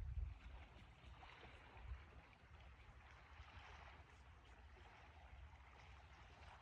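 Near silence: faint outdoor ambience, a soft even hiss with a weak low rumble.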